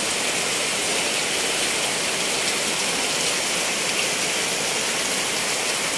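Heavy rain pouring down steadily onto a wet street, a dense, even hiss.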